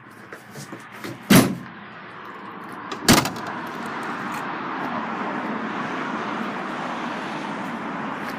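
Two loud slams about two seconds apart as the rear canopy door and tailgate of a Nissan Navara pickup are shut, followed by a steady rushing noise.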